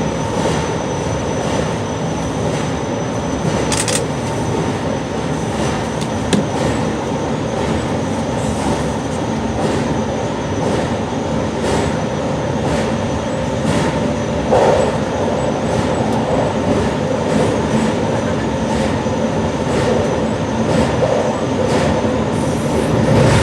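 JR Shikoku 8600 series electric train running at speed, heard from the cab: a steady rolling rumble with a faint steady whine and a click from the track about every second.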